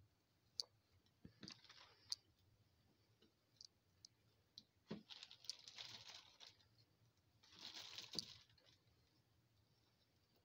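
Faint kitchen handling sounds: pieces of partly frozen turkey being pulled apart and added to a bowl of casserole mixture, in three short soft rustling stretches with a few light clicks.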